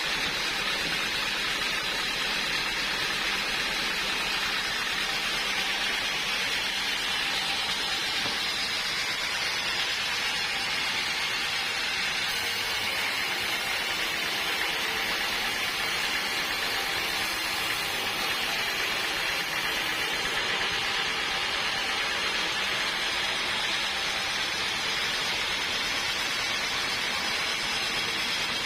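Sawmill machinery running steadily: an even, rushing noise with no clear pitch, which changes slightly in its upper range between about 12 and 20 seconds in.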